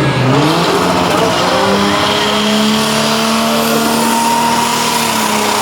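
Pulling tractor's engine held at high revs under load. The pitch climbs in the first half-second, stays high and steady, and drops slightly near the end.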